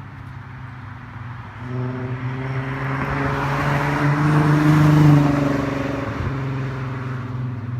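Exhaust of a 3.6-litre R36 VR6 engine breathing through a 3-inch MagnaFlow cat, Pypes resonator and Borla muffler. It runs steadily at first, then climbs in level and pitch over about three seconds to a peak about five seconds in. It then falls back to a steady low note.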